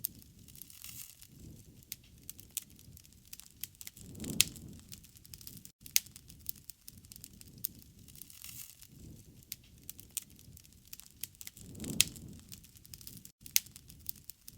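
Wood fire crackling, with frequent sharp pops and snaps over a low rushing of flame that swells twice, about four seconds in and again near twelve seconds.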